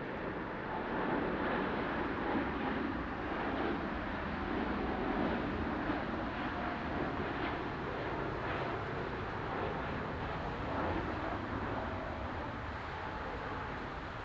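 Boeing 747 jet engines running: a steady rush of engine noise with a faint whine over it.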